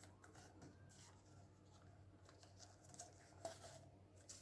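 Faint rustling and light clicks of paper being handled while torn green paper is glued onto a paper cone, a few slightly louder near the end.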